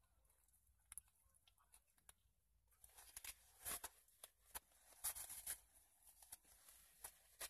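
Faint sounds of a sandwich being chewed with dentures, a few soft clicks at first. From about three seconds in comes soft rustling of a paper napkin as the mouth is wiped.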